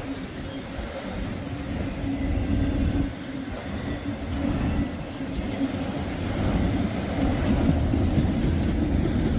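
Freight train of tank cars rolling past, a steady low rumble of wheels on rail that grows louder toward the end.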